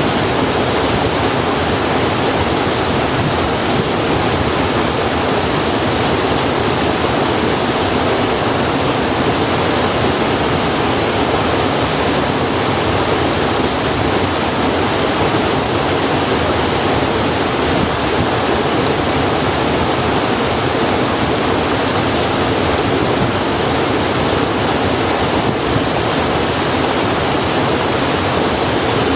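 Steady, even rushing of flowing water, with no change or distinct crackles.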